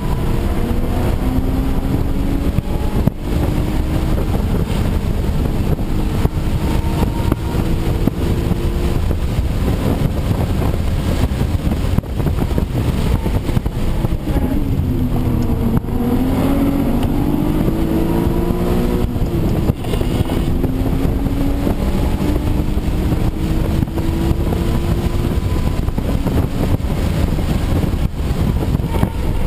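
Audi B5 S4's twin-turbo 2.7-litre V6 heard from inside the cabin at track pace, over heavy road and wind noise. The engine note climbs steadily in each gear and drops sharply at the upshifts, about three seconds in and again past the twenty-second mark. About halfway it falls away for a corner, then climbs again.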